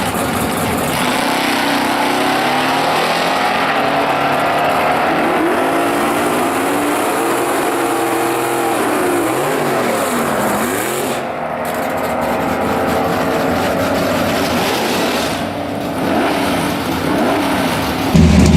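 Drag-racing car engines at full throttle, their pitch climbing and dropping several times through gear changes over a steady rush of noise. Near the end, a sudden louder, deeper engine rumble sets in.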